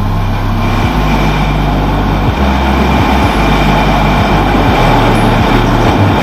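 Sport motorcycle riding at speed: engine and wind rushing, growing louder over the first few seconds. Underneath is music with a deep bass line.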